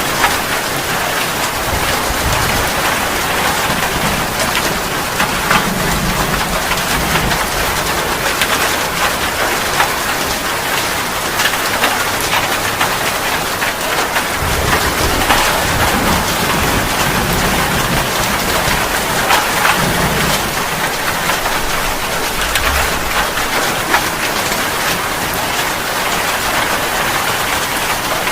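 Steady rain falling, a dense hiss dotted with many sharp drop hits. A few soft low rumbles swell and fade now and then.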